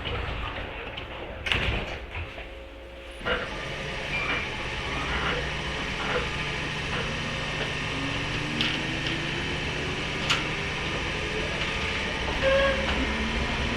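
Interior running sound of a JR 103 series motor car with MT55 traction motors: a thud about a second and a half in, then about three seconds in the train sets off, its motor whine rising slowly as it gathers speed.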